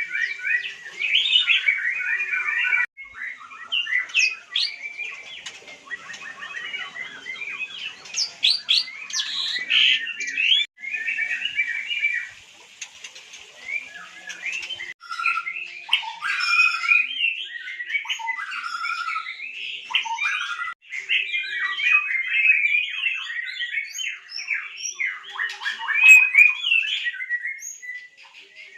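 White-rumped shama singing: rapid, varied chirps and whistled phrases running on with only brief pauses.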